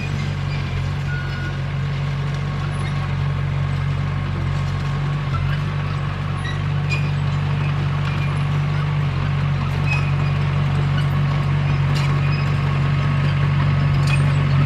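Komatsu D21P crawler bulldozer's diesel engine running steadily, a low drone that slowly grows louder, with a few faint clicks.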